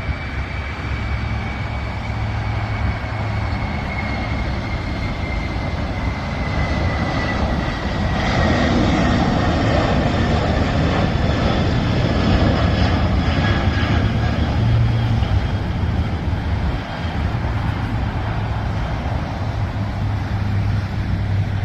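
Jet airliner engines on take-off: a steady rumble with a high whine that slowly falls in pitch, swelling loudest partway through and then easing off.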